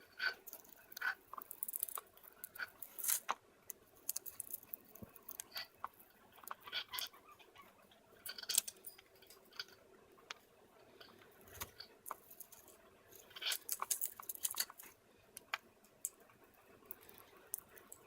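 Cockatiel chewing and cracking oat groats in its beak: soft, irregular little clicks and crunches, busiest near the end.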